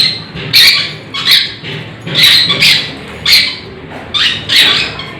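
Pet parrot squawking: a string of short, shrill calls, about two a second.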